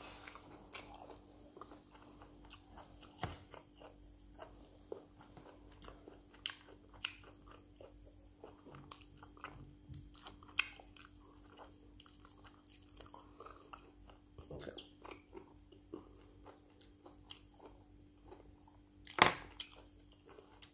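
A person chewing and biting into stewed meat on the bone, eaten by hand, heard close up: many small wet clicks and crunches scattered irregularly, with one sharper, louder sound near the end.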